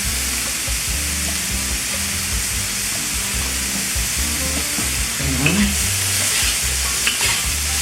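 Chicken and vegetable stir fry sizzling steadily in a hot pan.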